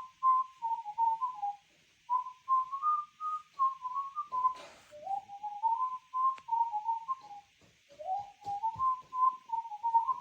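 Pets Alive Chirpy Birds electronic toy bird playing a whistled tune through its small speaker, in three phrases with short pauses between them, over a faint electronic hiss.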